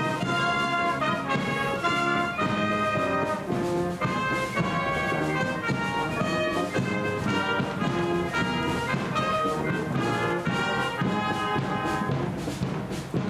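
Live band playing a tune on brass instruments, trumpets and trombones holding sustained notes in a moving melody, with drum strokes coming in near the end.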